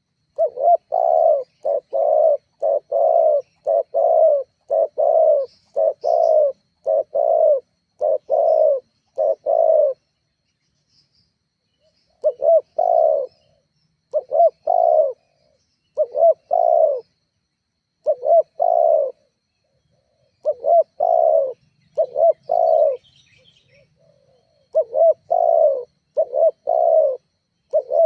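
Spotted dove (tekukur) cooing, repeating its phrase over and over. A close run of coos lasts about ten seconds, breaks off briefly, then resumes in groups of coos.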